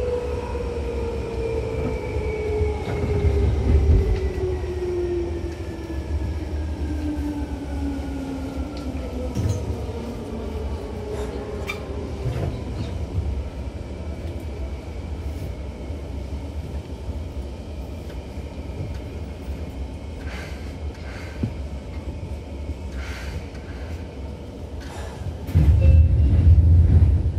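Seibu 2000 series electric train heard on board while running, with wheels rumbling on the track. Its motor whine falls steadily in pitch over about ten seconds as the train slows. Scattered clicks follow, and a louder rumble comes near the end.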